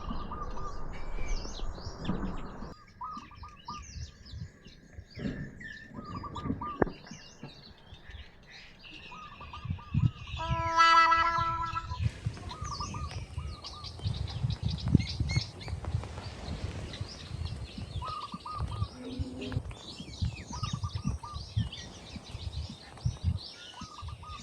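Outdoor bird ambience: small birds chirping throughout, a short call repeating every couple of seconds, and one long, loud pitched call from a domestic fowl about halfway through.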